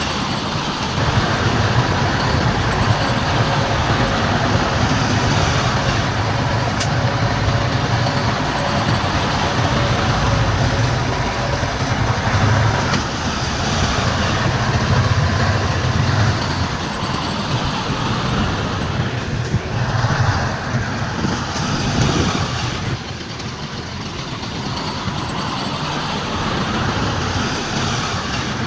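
Heavy diesel earthmoving machinery running, a steady low rumble with a faint held whine in the first third, easing off a little after about 22 seconds.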